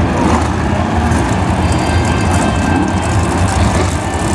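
BriscaF1 stock cars' V8 engines running hard as the pack laps the track, a loud, steady mass of engine noise with no break.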